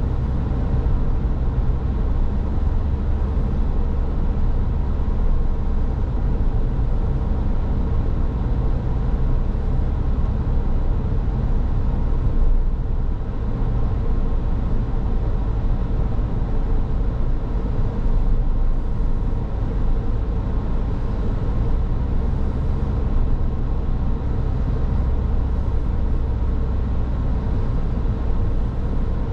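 Car driving along at a steady pace: continuous low road rumble and engine noise with a faint steady hum, no sudden events.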